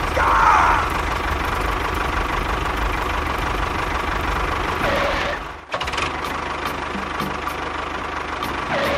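Small engine of a miniature tractor running steadily. There is a short high squeal about half a second in, and a brief break about five and a half seconds in, after which it runs on with a faint rapid ticking.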